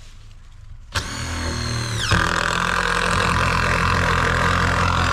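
Impact driver driving a long TimberTech screw into a wooden fence post: it starts about a second in with a brief high whine that drops in pitch as the hammering takes hold, then runs steadily.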